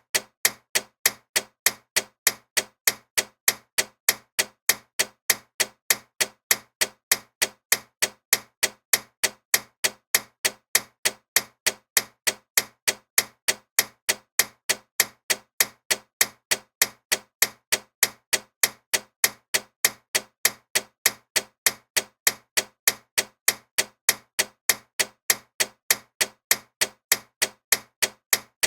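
Loud ticking clock: fast, even, sharp ticks, several a second, with a slight alternating tick-tock.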